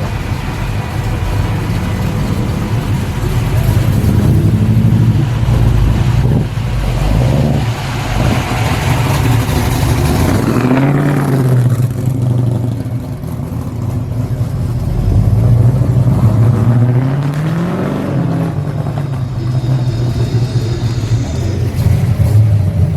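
Car engines revving and driving past one after another, the engine note rising and falling several times.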